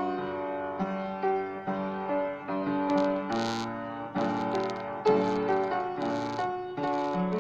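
Instrumental piano-style keyboard music: a melody of notes struck about twice a second over sustained lower notes.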